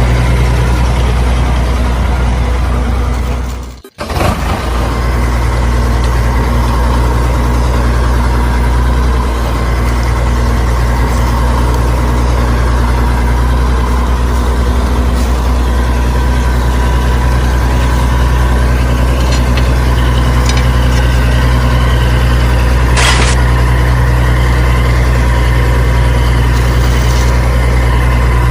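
An engine running steadily at idle, with a low, even hum. It cuts out briefly about four seconds in and picks straight up again, and a short click sounds near the end.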